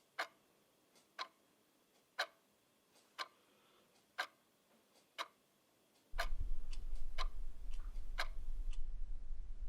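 Mechanical clock ticking, one sharp tick a second. About six seconds in, a steady low hum comes in and stays under the ticks, and fainter in-between ticks appear.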